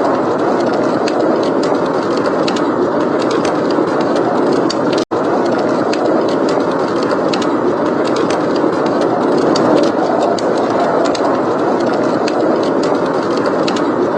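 Snowstorm wind blowing steadily, with a wood fire crackling in many small sharp pops over it. The sound drops out for an instant about five seconds in.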